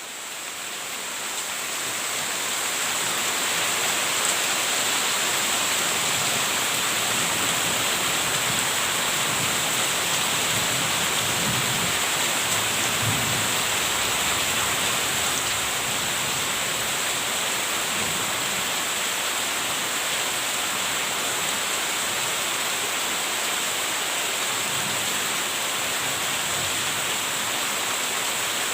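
Steady heavy rain, an even rushing hiss that fades up over the first couple of seconds and then holds steady.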